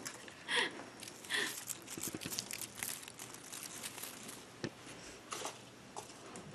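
Paper crinkling and rustling as it is handled, with many small irregular clicks and crackles, as an ornament is unwrapped.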